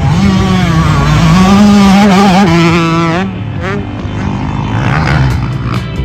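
Motocross dirt bike engines revving on the track, the pitch rising and falling with the throttle. It drops away about three seconds in, leaving quieter engine noise.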